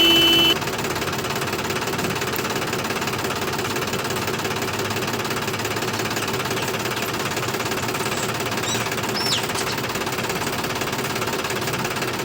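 Small motor of a DIY mini tractor model running with a steady buzz. A short beep sounds at the very start.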